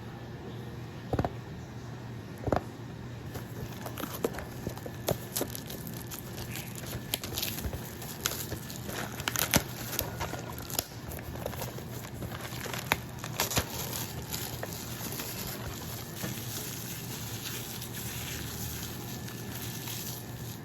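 Packaging crinkling and rustling as it is handled, with irregular sharp crackles that come thickest in the middle.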